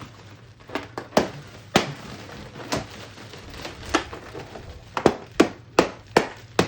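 Balloons bursting one after another: about ten sharp pops, irregularly spaced and coming quicker in the last couple of seconds.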